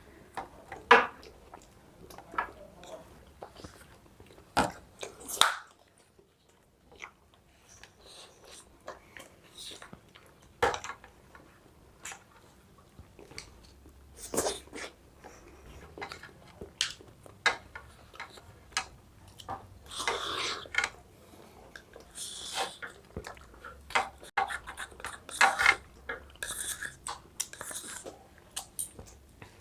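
Close-up eating sounds of ice cream and kulfi being eaten: irregular mouth sounds and chewing with sharp little clicks, busier in the second half.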